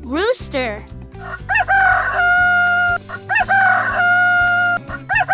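Rooster crowing cock-a-doodle-doo twice, each crow a quick rising start followed by a long held note, with a third crow starting near the end.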